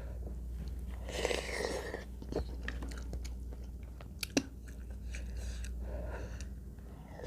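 A person chewing and biting food close to the microphone, with soft wet mouth sounds and a few sharp clicks, the loudest a little past four seconds.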